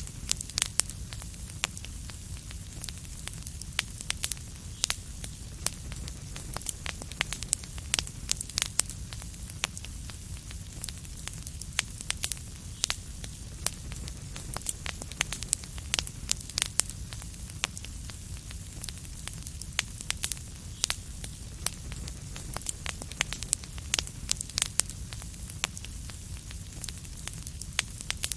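Wood fire crackling steadily, with frequent irregular sharp pops and snaps over a low rumble and hiss.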